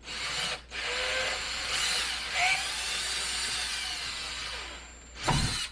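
Drill running, boring into wood behind the wall for about four seconds before fading out, then a short loud knock near the end.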